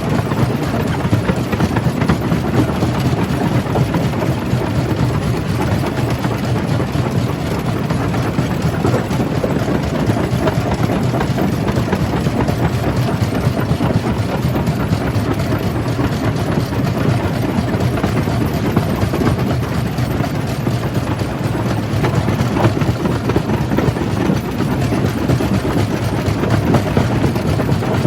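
Stone-crushing jaw crusher running steadily while crushing rock: a dense, continuous low rumble with fine, irregular rattling throughout.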